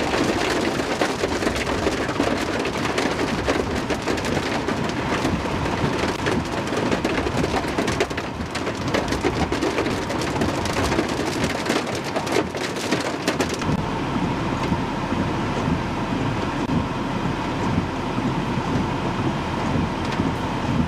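Heavy rain falling hard, thick with the sharp hits of drops. About two-thirds of the way through, it gives way abruptly to a steadier low rumble with a faint steady hum.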